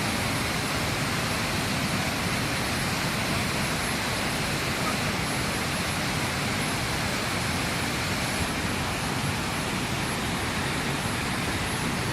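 Wachirathan Waterfall's water falling and crashing, a steady, unbroken rush of noise.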